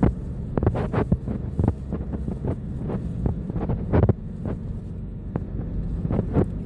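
Steady low rumble and hum of a vehicle travelling along a road, heard from inside, with frequent irregular knocks and thumps, the loudest about four seconds in.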